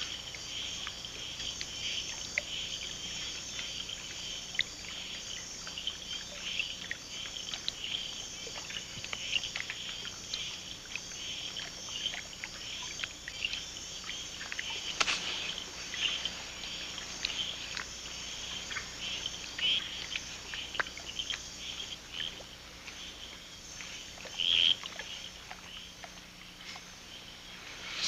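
Night rainforest chorus of frogs and insects around a pond: a dense, steady mass of short, high chirps and clicks. One louder chirp stands out near the end.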